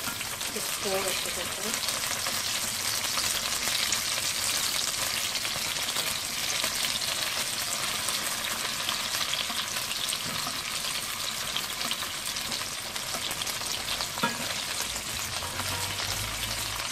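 Chicken pieces frying in hot oil in a nonstick pan, a steady crackling sizzle, while a spatula stirs and turns them.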